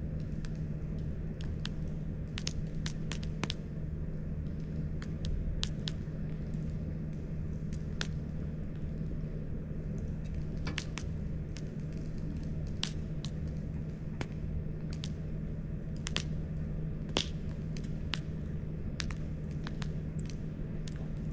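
Wood campfire crackling, with irregular sharp pops and snaps over a steady low hum.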